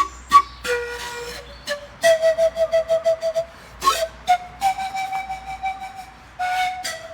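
Flute playing a melody, with quick runs of repeated notes and longer held notes, a short breathy attack at the start of each phrase.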